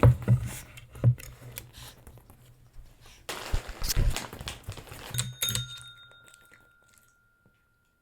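A few thumps and some rustling, then a desk call bell is rung by a dog about five seconds in, its clear ding dying away slowly.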